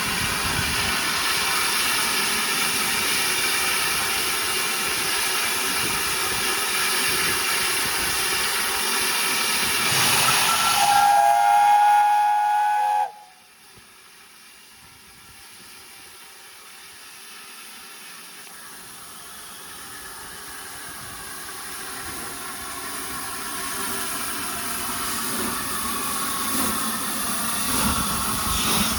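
Long sustained 'death whistle' from 60163 Tornado, a Peppercorn A1 Pacific steam locomotive, sounding loud with steam hiss. It swells about ten seconds in and cuts off abruptly a few seconds later. After that a quieter train noise grows steadily louder.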